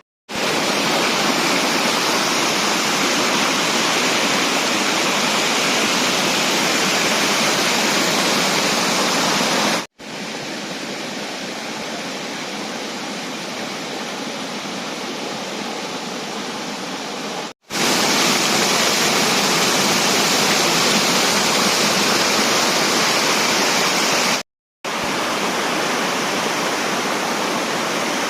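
Waterfall: water falling and rushing steadily over rock. It is heard in four takes joined by abrupt cuts, and the second take is noticeably quieter.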